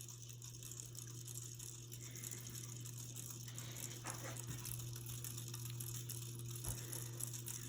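Westinghouse Xavier ceiling fan running on its low speed: a steady, quiet motor hum with a faint hiss of air and a few light ticks.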